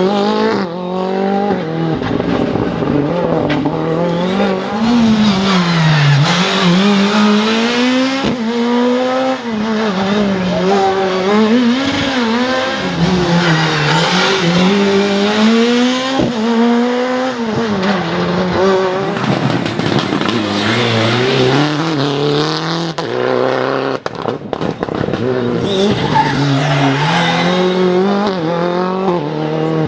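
World Rally Car's 1.6-litre turbocharged four-cylinder engine revving hard at full racing pace. Its pitch climbs and drops again and again through gear changes and corners, with a few sharp cracks along the way.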